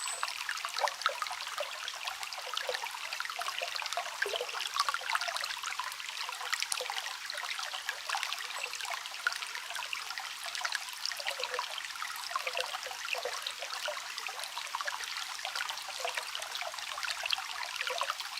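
Small stream trickling and babbling steadily over stones, a continuous wash of fine splashes.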